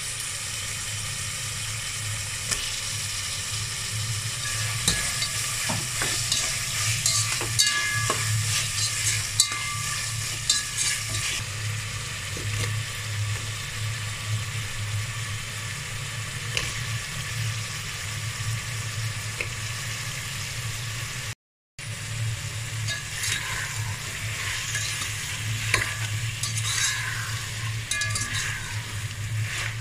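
Prawns, onion and green chillies sizzling in hot oil in a pot, with scattered clicks and scrapes of a spatula against the pot as they are stirred. The sound cuts out for a moment about two-thirds of the way through.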